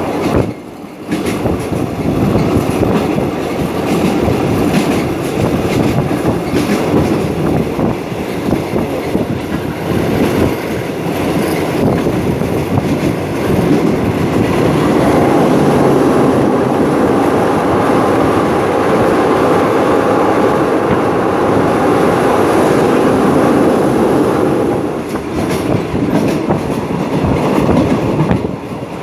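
Passenger train running along the line, heard from inside a coach: the steady running noise of wheels on the rails with frequent short clicks. It grows louder about halfway through and eases again near the end.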